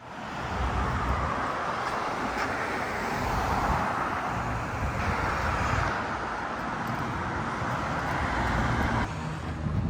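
City street traffic: a steady wash of passing cars that swells and fades as vehicles go by, dropping noticeably about nine seconds in.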